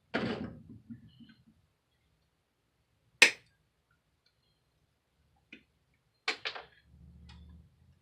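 Wire snips cutting through the rings that hold a basket's handle: a single sharp snap about three seconds in, then a faint click and a quick cluster of clicks a little after six seconds, with a brief low rumble of handling near the end.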